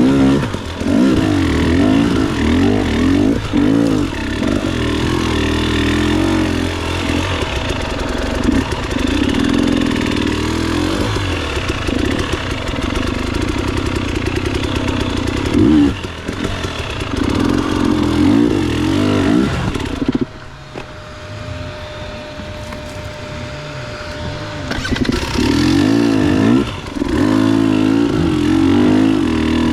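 Motorcycle engine running under way, its pitch rising and falling with throttle and gear changes. About twenty seconds in it drops to a quieter, lower running for about five seconds, then picks up again.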